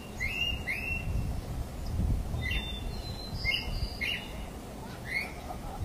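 Birds chirping: short calls that rise and fall, repeated every half second or so, over a steady low rumble.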